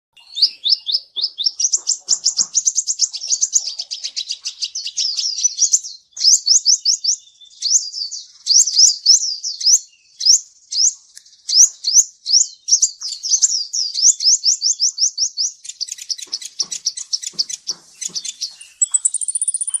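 Kolibri ninja sunbird song: long runs of rapid, high, sweeping chirps in quick trills, broken by short pauses a few times, with a thin high whistle near the end.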